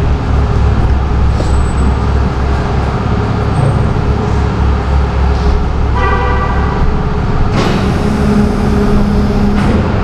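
Tow truck engine running with a steady low rumble. About six seconds in, a short horn toot sounds for about a second, and a lower steady tone runs through the last two seconds.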